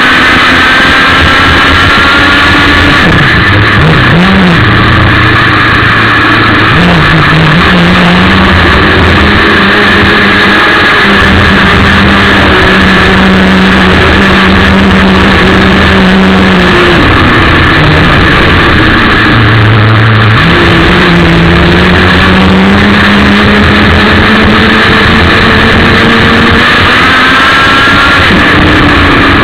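ASP 61 two-stroke glow engine of a radio-controlled model race boat running hard, very loud and close, its pitch holding high, dropping as the throttle eases around two-thirds of the way through, then climbing again.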